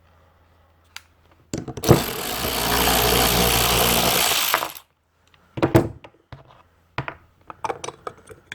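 A small power driver runs steadily for about three seconds, taking the float-bowl bolt out of a small-engine carburetor, then stops. Light metal clicks and clinks follow as the bowl and small parts are handled.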